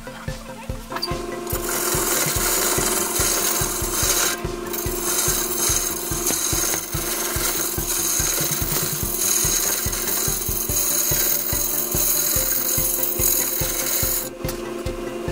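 Wood lathe running while a tool works the spinning wood, giving a loud, steady hiss over the machine's hum. The hiss sets in about a second in.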